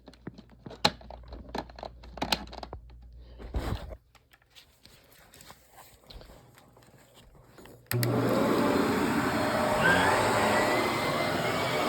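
A few clicks and knocks of handling, a pause, then a household vacuum cleaner switched on about two-thirds of the way through, running steadily with a faint whistle in its suction.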